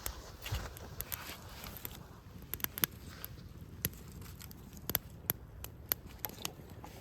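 Campfire wood crackling, with irregular sharp pops and clicks over a low, steady hiss.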